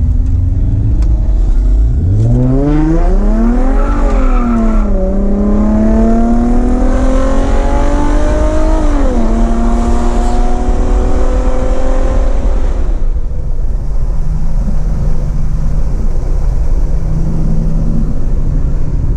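Tuned bolt-on Infiniti G35's V6 under a full-throttle pull, revving up through the gears with two upshifts where the pitch drops sharply, once about five seconds in and again about nine seconds in. After about thirteen seconds the driver lifts off and it settles to a steady low cruise.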